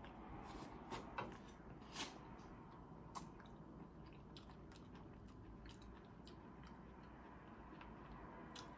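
Faint close-up sounds of corn on the cob being bitten and chewed. A few sharp, crisp bites come in the first three seconds, followed by soft chewing.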